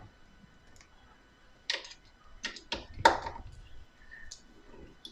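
A few sharp clicks and taps of a screwdriver and screws being handled, the loudest a knock about three seconds in.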